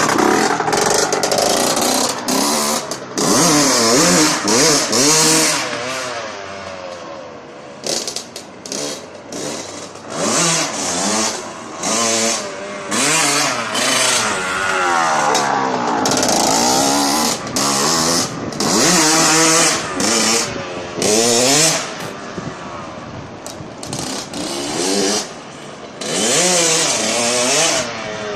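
Honda CR80 dirt bike's single-cylinder two-stroke engine being ridden hard, revving up in repeated surges and falling back off the throttle, its pitch climbing and dropping again and again.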